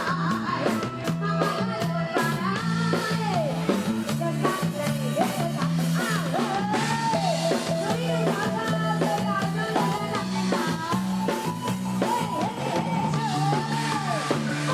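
Live Thai Isan pop band music: a drum kit keeps a steady beat over a repeating bass line, with a sliding, wavering lead melody above.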